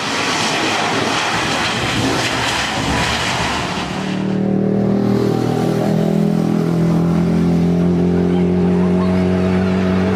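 Landing airliner's engines: a loud broad rush for about four seconds, then a steady droning hum with several steady tones that holds to the end.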